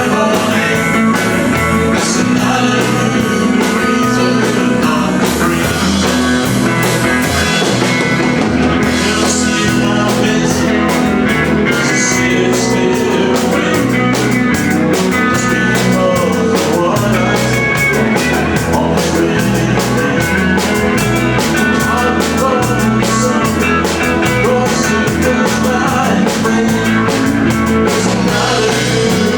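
Live band playing a country-rock song, with guitar and a drum kit keeping a steady beat.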